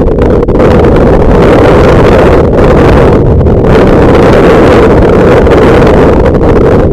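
Loud, steady wind buffeting the microphone of a camera carried on a moving bicycle, a continuous low rumble that dips briefly a few times.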